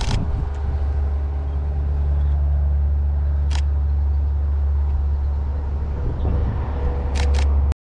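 Camera shutter clicking: once at the start, once about three and a half seconds in, and twice in quick succession near the end. Under the clicks runs the steady low rumble of an idling car, and the sound cuts off abruptly just before the end.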